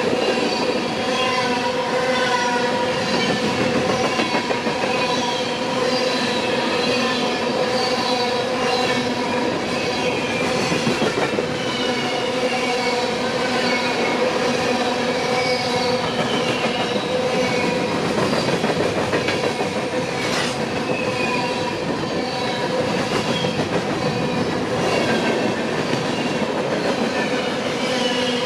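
Empty grain train's freight cars rolling past at speed, a continuous rumble with wheels clacking over the rail joints and steady ringing tones from the wheels and rails.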